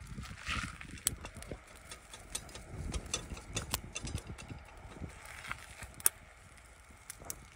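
Wood fire crackling, with sharp irregular pops and snaps over a low rumble.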